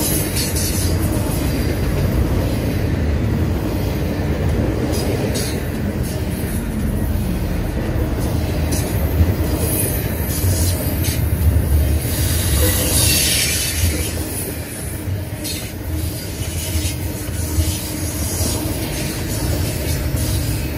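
Double-stack intermodal freight train rolling past: a steady rumble of steel wheels on rail with scattered clicks and knocks from the passing well cars, and a brief high hiss about two-thirds through.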